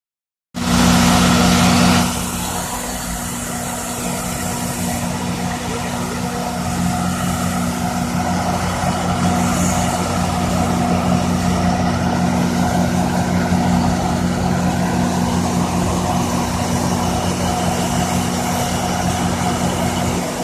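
Steady low engine hum of idling vehicles over a hiss, with a louder rush in the first second or so.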